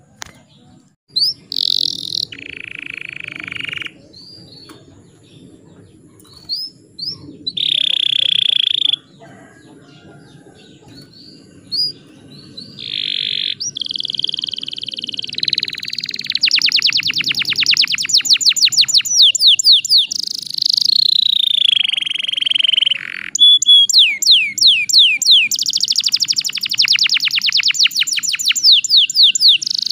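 Canary singing: scattered short chirps and buzzy notes at first, then from about halfway a nearly unbroken song of rapid trills and rolls.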